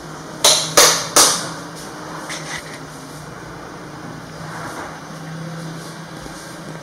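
Three quick, sharp knocks in a row about half a second to a second in, followed by a faint steady low hum.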